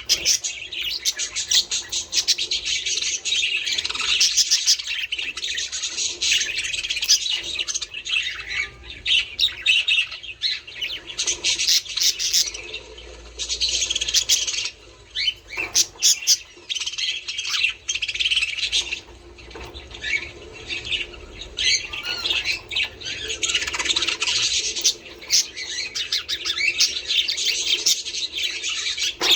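Budgerigars chattering continuously, a dense tangle of warbles, chirps and squawks from several birds at once.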